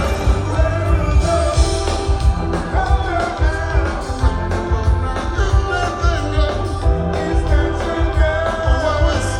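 Live rock band playing a song with a lead singer over a heavy bass line and a steady drum beat.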